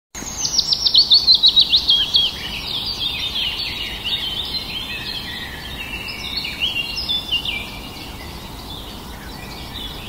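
Birds singing and chirping: a quick run of high falling notes in the first two seconds, then a softer, busier jumble of chirps and short whistles.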